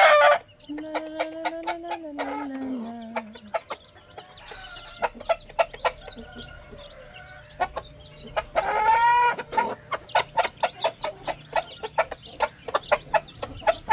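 A mother hen and her chicks clucking as they feed. There is a long, low, slowly falling hen call in the first few seconds, a louder call about two-thirds of the way through, and quick short ticks throughout.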